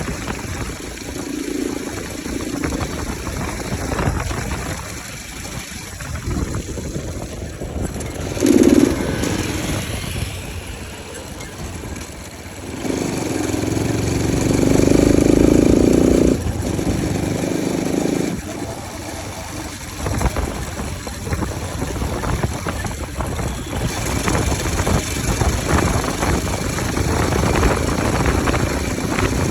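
Bajaj Pulsar RS 200 single-cylinder motorcycle engine running with its air filter removed, so the intake noise is unfiltered. The engine is blipped once sharply about eight seconds in, then held at higher revs for a few seconds from about thirteen seconds, and otherwise runs unevenly near idle.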